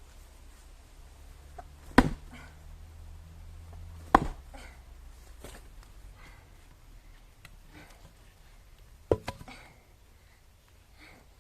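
Firewood being split: three sharp chopping blows, each followed by a lighter knock, with fainter wooden clicks between them.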